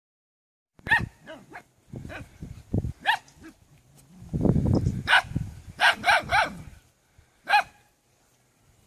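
A dog barking in short, sharp, high-pitched yaps, about seven times, with lower, rougher sounds in between.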